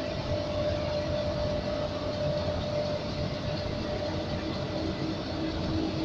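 Rotary furnace for smelting scrap lead-battery plates running: a steady rushing noise from the burner and drum, with a hum that gives way to a lower one about halfway through.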